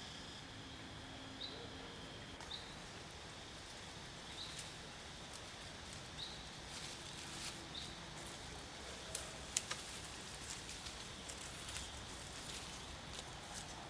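Outdoor ambience: a short high chirp repeats every second or two, with scattered sharp clicks and rustles in the second half.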